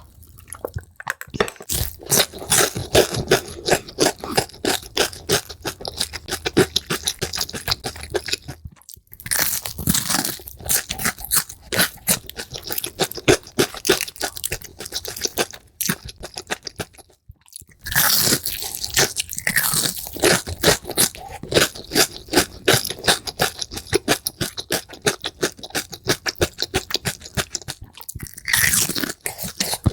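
Crisp food being bitten and chewed in rapid, loud crunches, sped up, with a few brief breaks between bites.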